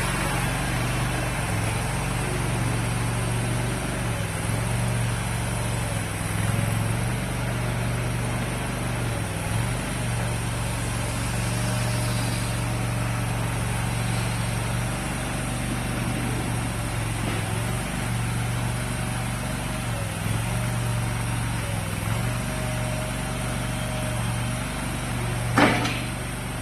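A mini skid steer loader's engine runs steadily, its pitch wavering briefly every few seconds. There is one sharp clank about a second before the end.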